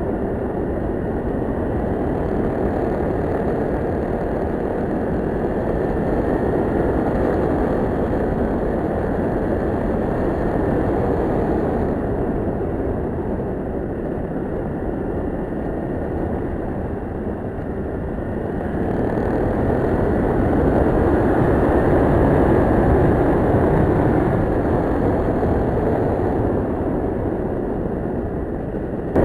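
Kawasaki Ninja 650R under way on the road: rush of wind and road noise with the parallel-twin engine underneath, swelling and easing slowly as speed changes.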